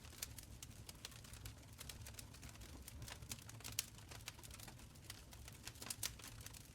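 Wood fire crackling in a stone fireplace: quick irregular pops and snaps, a few louder ones near the middle and about six seconds in, over a soft low rumble of the flames.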